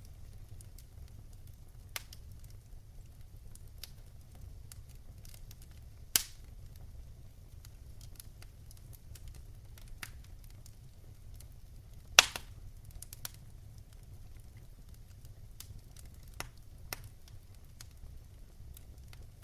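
Fire in a fireplace crackling, with scattered sharp pops, the loudest about six and twelve seconds in, over a steady low rumble.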